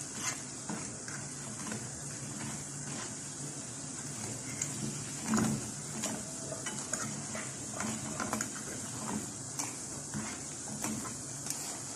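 Pakoras sizzling in hot oil while a wire skimmer scrapes and knocks against the frying pan, scooping the fried pieces out. There is a steady hiss of frying, with irregular metal knocks, the loudest about five seconds in.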